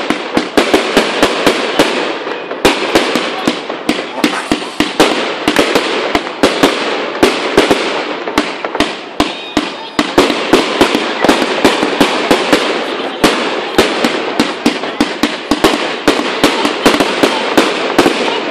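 Aerial fireworks display, with shells and rockets bursting in a rapid, unbroken barrage of loud bangs, several a second, over a constant rushing noise.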